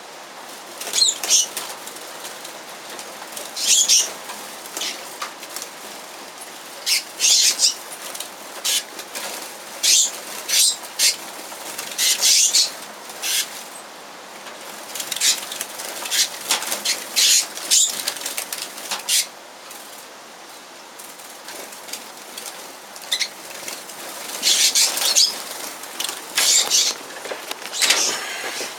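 Small aviary birds fluttering and calling: a run of short, sharp, high bursts of wingbeats and chirps in quick irregular succession, easing off briefly about two-thirds of the way through.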